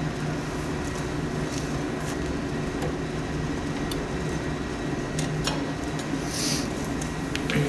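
A steady low mechanical hum, with scattered light clicks and clinks of hand tools on metal snowblower parts during a teardown, and a short hiss about six and a half seconds in.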